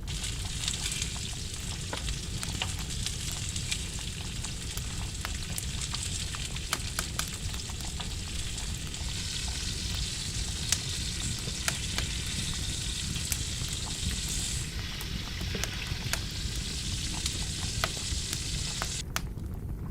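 Food frying in a pan: a steady sizzling hiss with scattered pops and crackles, which cuts off sharply near the end.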